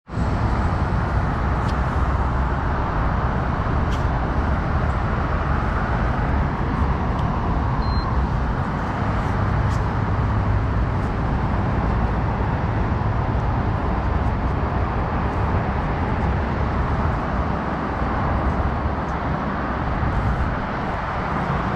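Gas RC vehicle's 29cc reed-valve two-stroke engine running steadily at speed, heard as a dense rushing noise over a strong low rumble.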